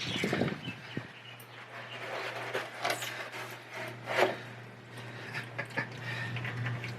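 Scattered light knocks, scrapes and rubbing of parts being handled, with two stronger scraping strokes about three and four seconds in, over a steady low hum.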